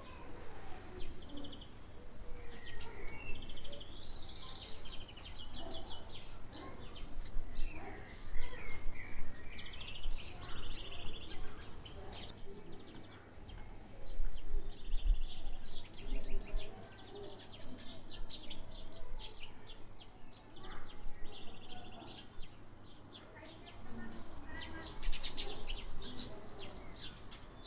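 Several wild birds singing, a mix of short high chirps and fast repeated trills, over a low steady rumble.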